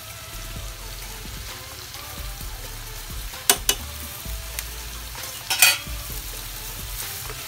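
Chili spice paste sizzling as it fries in a non-stick wok while it is stirred with a spoon. A few sharp knocks of the spoon on the pan come about halfway through and again about two seconds later.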